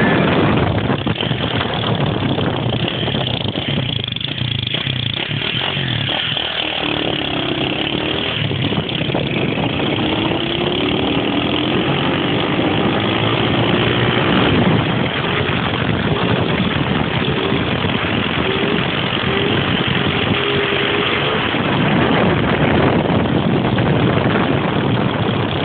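Motorcycle engines running, their pitch gliding up and down as they rev, from roughly 7 to 21 seconds in.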